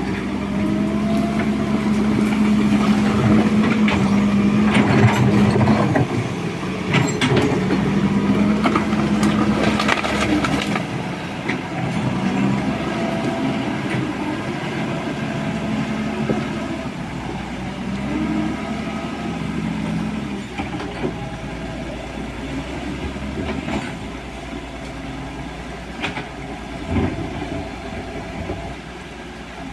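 A hydraulic excavator's diesel engine working under load. Its note drops out and comes back as the load changes, while clanks and scraping from the bucket in gravel come and go, mostly in the first ten seconds.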